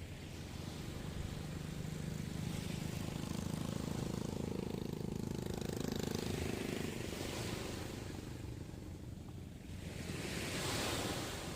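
Sea waves washing onto the shore, with a low engine drone that swells over the first few seconds and fades out past the middle. Near the end a wave breaks with a rush of surf that rises and falls.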